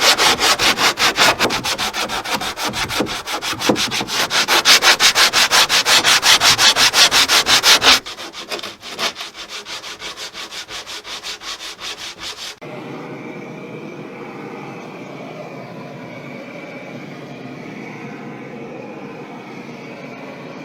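A hand tool working wood in quick, even strokes, about five a second, with a rasping, scraping sound. About eight seconds in the strokes turn quieter, and a few seconds later they stop, leaving a steady, quieter hiss.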